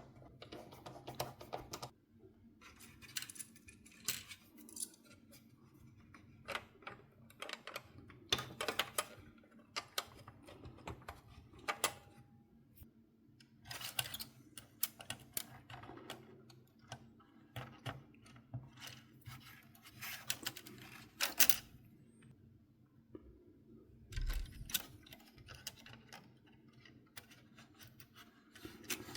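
Irregular clicks, taps and small rattles of a PS4's plastic and metal parts being handled during repair work, over a faint steady hum.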